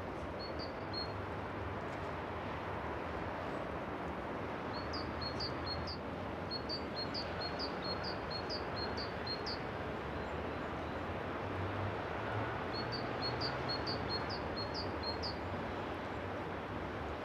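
A small bird chirping in runs of short, high chirps, about two a second, in several runs with pauses between them. Under it is a steady background noise with a low hum.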